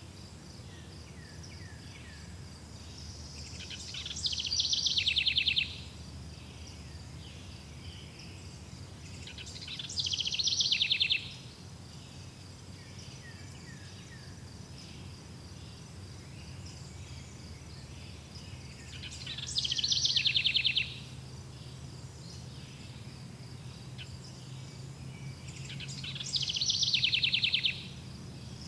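Forest ambience: a bird repeats a loud, rapid trilled song phrase four times, each swelling for about a second and a half and then stopping abruptly, over steady high-pitched insect chirring and a low background rumble.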